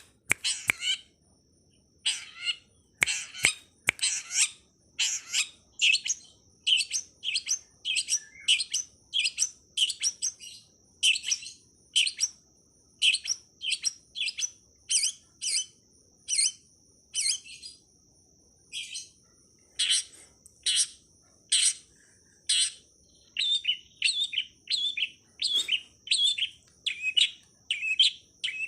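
Long-tailed shrike (pentet) calling: short, sharp notes repeated about once or twice a second, with a thin steady high tone underneath from about a third of the way in.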